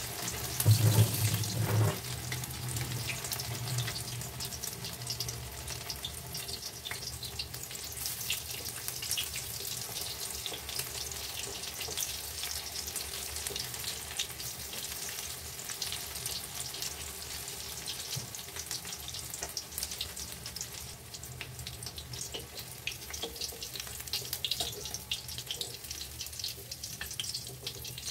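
Cabbage batter-cake pieces deep-frying in hot mustard oil in a kadai: steady sizzling and crackling, louder for the first two seconds.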